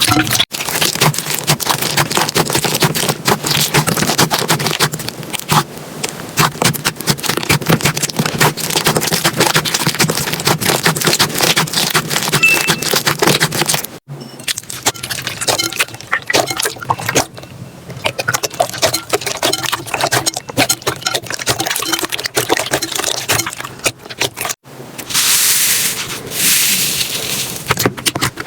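Slime being squeezed and poked by hand, giving a dense run of crackles and small pops, in several clips cut one after another. Near the end there is a brief stretch of hissing.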